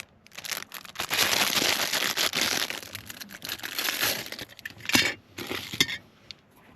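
Packaging crinkling and rustling as it is worked open by hand, with a sharp snap about five seconds in and a shorter rustle just after.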